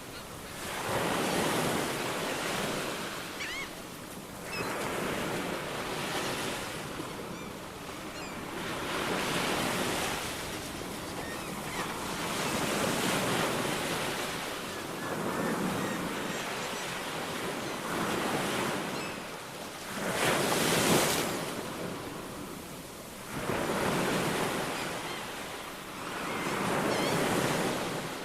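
Ocean waves washing onto the shore, the surf rising and falling in swells every few seconds, the biggest about three quarters of the way through.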